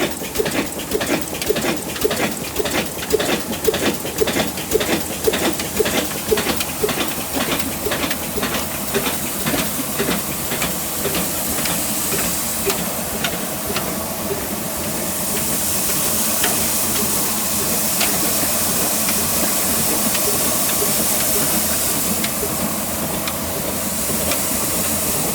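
An old stationary engine running with an even beat of sharp knocks several times a second; from about fifteen seconds in a loud hiss rises over the beat.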